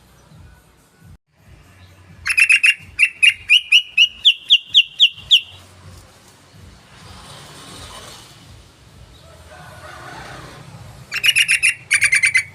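Yellow-vented bulbul song: a run of about a dozen sharp chirping notes that rise in pitch and come faster, then a second short burst of chirps near the end.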